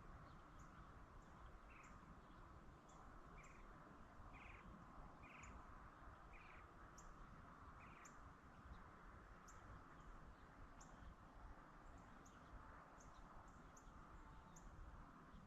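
Near silence with faint bird calls: short high chirps repeating about once a second, and a run of lower short notes through the first eight seconds or so.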